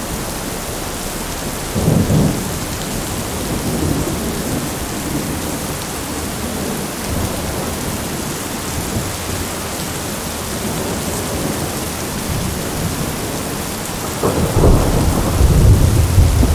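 Steady rain with rolling thunder: a short rumble of thunder about two seconds in, and a longer, louder rumble starting near the end.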